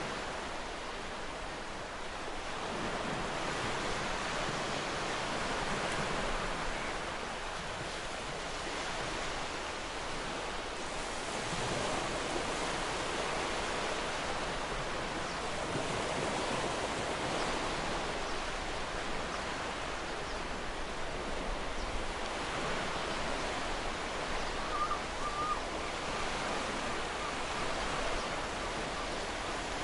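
Ocean waves breaking and washing up a beach: a steady rushing surf that swells and eases every few seconds. A short faint chirp sounds near the end.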